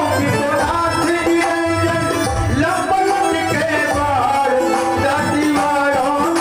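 Indian folk devotional music: a hand drum keeps a steady rhythm under a melodic line of held and sliding notes.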